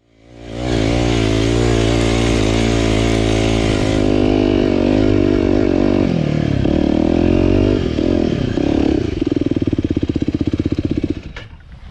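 Aprilia RX125 4T's single-cylinder four-stroke engine running through a Snell slip-on silencer with its dB killer fitted. It holds a steady note at first, rises and falls in pitch around the middle, then settles into a fast, even putter that stops shortly before the end.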